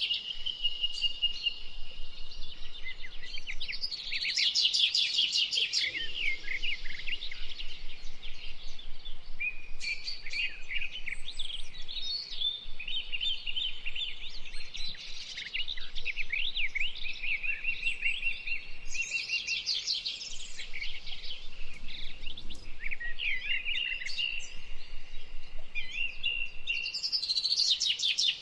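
Several songbirds singing at once, an unbroken mix of high chirps and quick trills.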